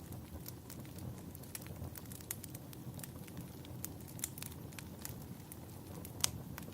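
Wood fire crackling in a fireplace: irregular sharp pops and snaps over a low steady rumble of the flames, with one louder pop near the end.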